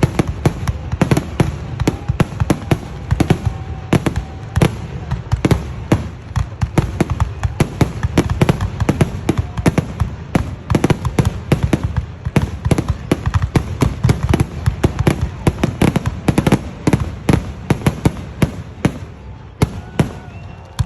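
Italian-style fireworks display going off in a rapid barrage, several sharp bangs a second, with a short lull near the end.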